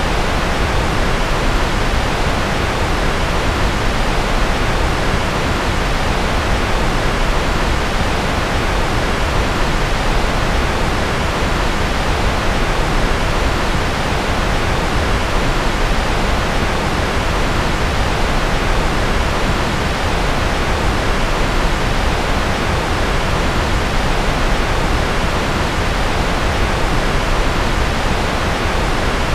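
Steady synthetic white noise: a constant, even hiss weighted toward the low end, closer in colour to pink noise.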